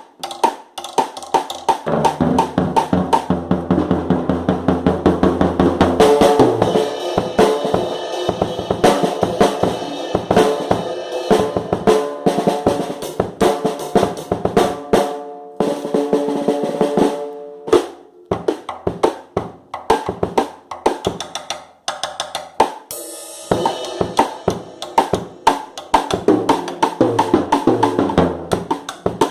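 A drum kit played fast, with dense snare strokes, bass drum and rolls, breaking off briefly a few times.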